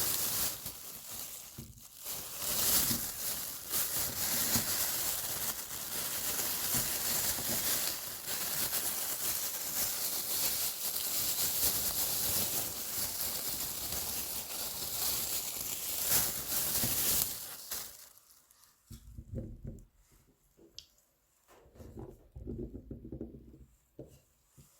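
Dry, papery garlic skins crackling and rustling as whole garlic cloves are peeled by hand. About 18 seconds in this stops, and a few separate knife chops on a cutting board follow.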